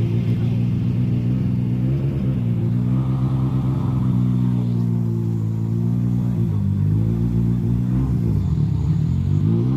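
Diesel engine of a truck tractor unit running hard during a sprint, steady at first, then its pitch dips and climbs again a couple of times in the later seconds.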